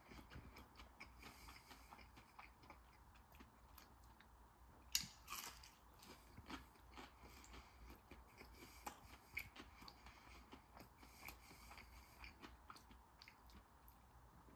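Faint chewing of a fried chicken tender, with scattered small mouth clicks; the sharpest click comes about five seconds in.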